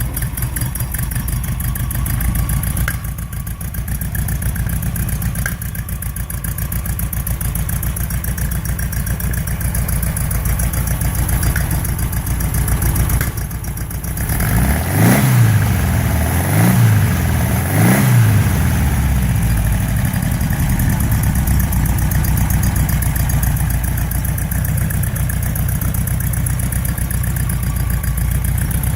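Freshly rebuilt Porsche 912 air-cooled flat-four engine idling steadily just after start-up. About halfway through it is revved in three quick blips, then settles back to idle.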